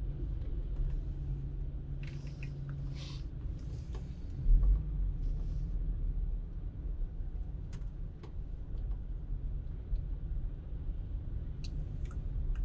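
Car driving in traffic: steady low rumble of engine and road noise, with a single low thump about four and a half seconds in.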